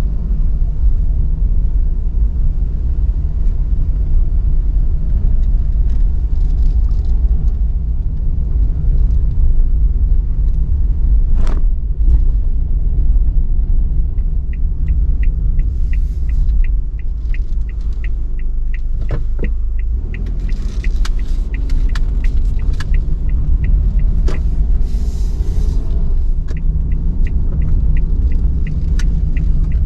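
Suzuki Every kei van driving, with a steady low engine and road rumble inside the cabin. From about halfway the turn-signal indicator ticks at roughly three clicks a second.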